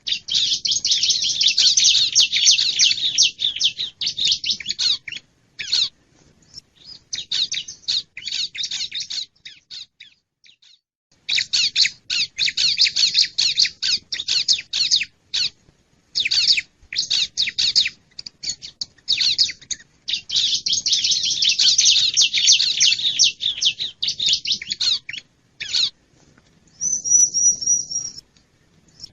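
Wild bar-winged prinia (ciblek) call played as a bird lure: fast runs of high chirps in bursts, with a lull of about a second and a half in the middle. Near the end comes a short, high, wavering note.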